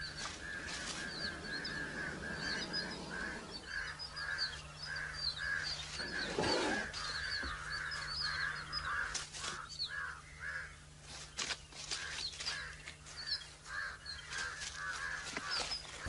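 Birds calling continuously: a rapid run of repeated short calls, about two to three a second, with higher chirps over them.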